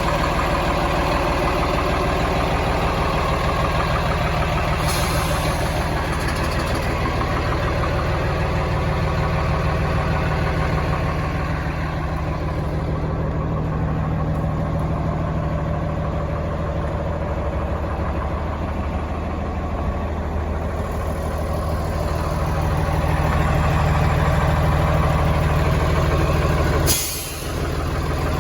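Diesel engine of a Freightliner M2-106 dump truck idling steadily, with a brief high hiss about a second before the end.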